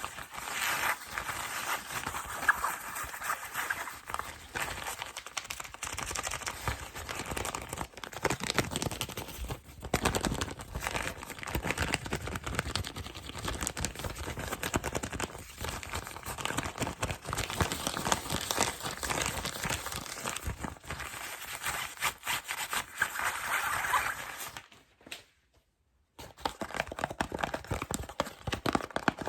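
Plastic packaging and cardboard being crinkled, rubbed and tapped in a fast, busy run of crackles and clicks, broken by a gap of about a second near the end.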